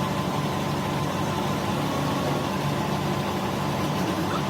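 An engine or motor running steadily at a constant speed.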